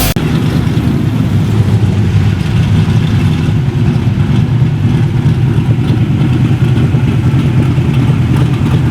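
Car engine running at idle, a loud, steady, low exhaust rumble with a fast flutter.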